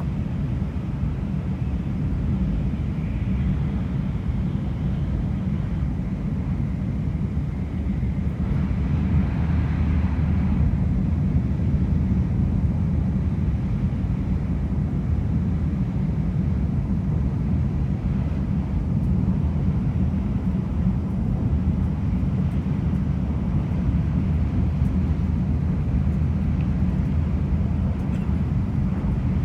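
Steady low rumble of a Shinkansen bullet train running at speed, heard from inside the passenger car, with a brief rise of hiss about nine seconds in.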